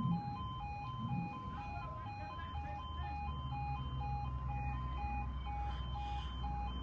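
Level crossing warning alarm sounding, rapidly alternating between two electronic tones in an even, repeating pattern, over a steady low rumble.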